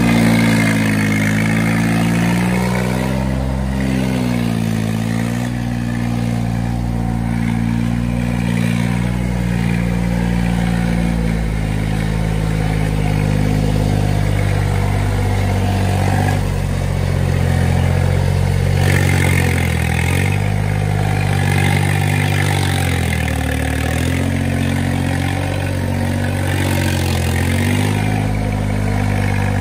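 Iseki tractor engine running steadily at mid speed. Its note sags and recovers a few times: once about three to five seconds in, and two or three times in the last third.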